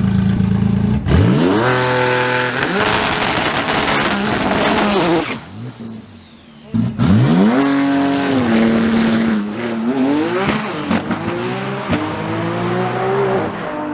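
Turbocharged drag-racing truck engine running steadily, then revving hard under full throttle. Its pitch climbs and falls back at each gear change, drops away briefly near the middle, then climbs through the gears again.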